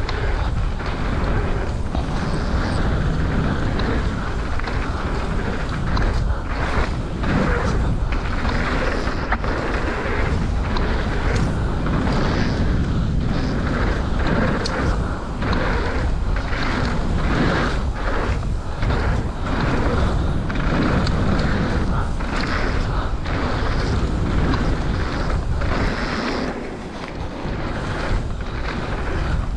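Mountain bike riding down a dirt flow trail: steady wind rumble on the microphone and tyre noise, with frequent short clattering knocks from the bike over bumps. The low rumble eases briefly near the end, then returns.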